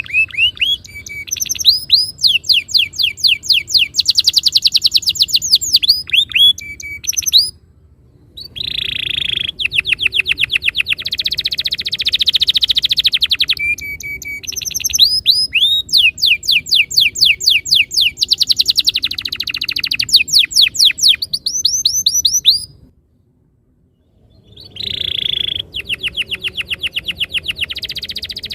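Domestic canary singing long rolling trills, each a rapid run of identical sweeping notes, strung into phrases with a short pause about a third of the way in and a longer break near the end.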